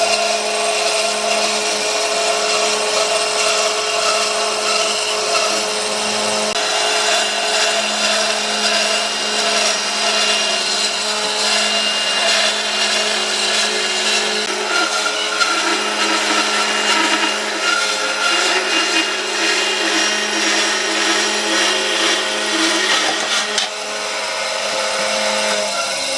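An electric power tool running steadily while working wood, its motor humming under the grinding noise of the cut, with a brief dip about three-quarters of the way through.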